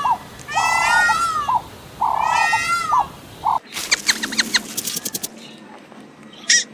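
An animal calling over and over, roughly one cry a second, then, after a sudden change in the background, a quick run of short high chirps.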